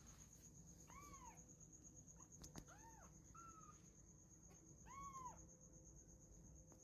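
Kitten meowing faintly, a few short rising-and-falling meows spread over several seconds, as it begs its adoptive mother cat for milk.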